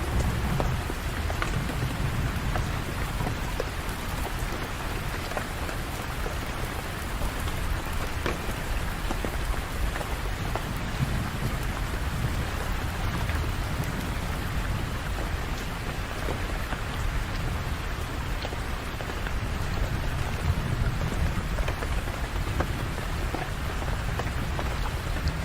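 Steady rain falling on hard surfaces, a dense even hiss full of small drop patters. A low rumble underneath swells a few times, near the start, about two-thirds of the way through and near the end.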